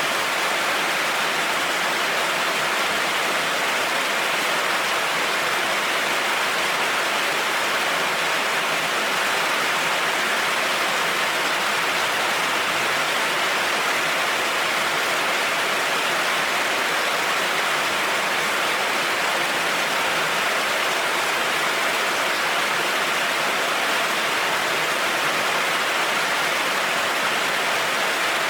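Heavy rain falling in a steady, unbroken hiss on a road, with no thunder or separate drips standing out.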